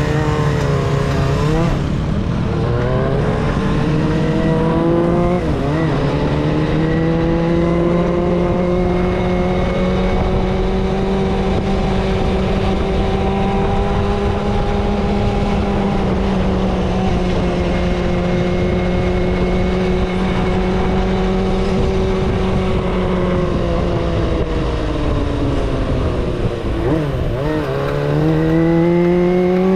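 Kawasaki ZXR250 inline-four engine under way: the revs climb, dip briefly about five seconds in and climb again, then hold a fairly steady cruise. Near the end the revs drop and rise once more. A low rush of wind noise runs underneath.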